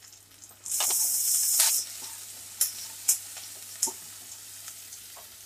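Roasted peanuts and sliced onions sizzling in hot oil in a nonstick kadhai as they are stirred, with a louder burst of sizzling for about a second near the start. A few sharp clicks of the spatula against the pan follow.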